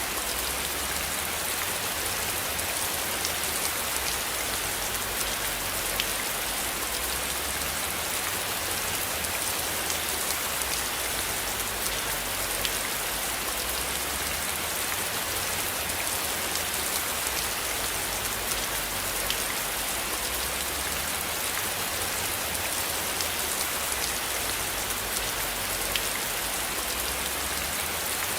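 Steady rain falling, an even hiss dotted with small drop ticks, over a low undertone that swells and fades every few seconds.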